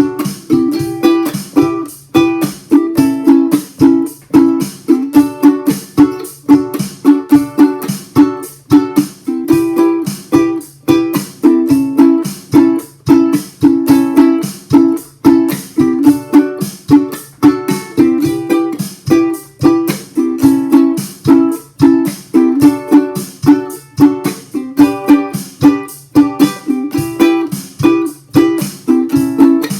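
Ukulele strummed in a chunking pattern (down, up, then a muted stop), keeping an even rhythm through a chord progression over a drum-machine beat.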